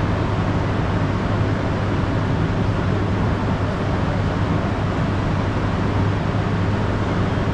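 Steady rumble of a Shinkansen bullet train, with a constant low hum and no change in level.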